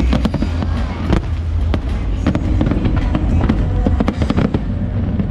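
Fireworks display: a rapid run of crackling bangs over a continuous deep rumble, with music and crowd voices faintly underneath.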